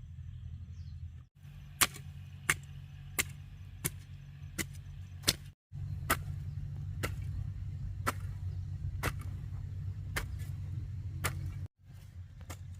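A hand tool striking repeatedly in an even work rhythm, about one sharp blow every second, over a steady low rumble; the sound breaks off completely twice for a moment.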